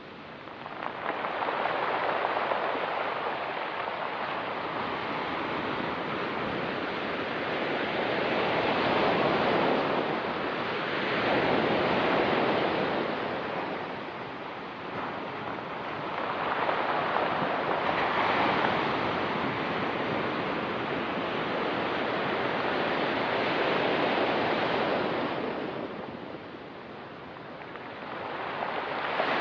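Ocean waves breaking on the shore, the surf swelling and fading again every few seconds.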